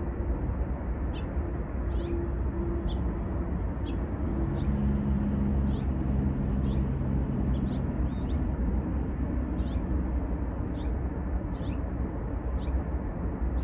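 Freight train rolling slowly across a long bridge, heard from a distance: a steady low rumble with short high squeaks repeating about once a second.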